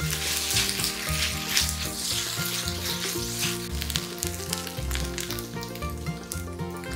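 Yakisoba noodles, pork and cabbage sizzling and crackling in a frying pan as they are stir-fried with chopsticks, over background music.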